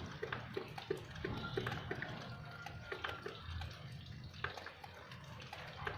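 Water dripping after rain: many small, irregular drips and plinks over a low steady background hum.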